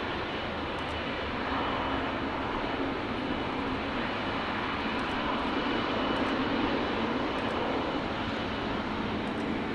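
Boeing 777-300ER's two GE90 turbofan jet engines at takeoff power, a steady roar with a thin steady whine above it, swelling slightly about a second and a half in.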